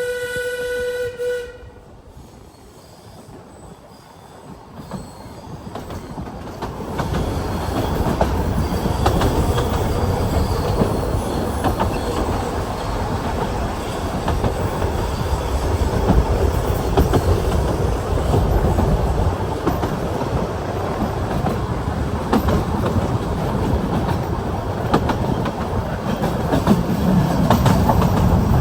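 A narrow-gauge train's locomotive ends a single held warning note about a second and a half in. The train's rumble then builds over the next few seconds into a steady run of wheels on rail, with scattered clicks from the rail joints.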